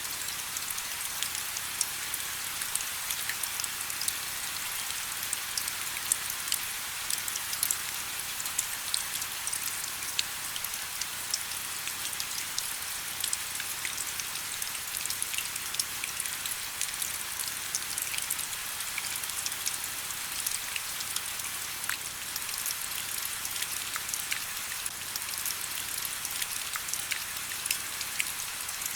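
Steady rain: an even hiss with many separate small drop ticks scattered through it, no thunder.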